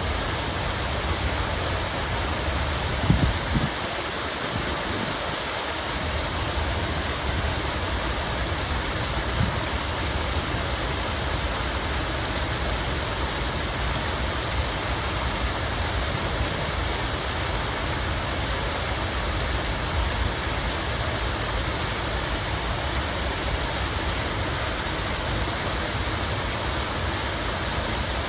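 Water falling and splashing steadily in a dense, even rush, like a park fountain or small cascade. A brief cluster of low thumps stands out about three seconds in, with a lighter one a few seconds later.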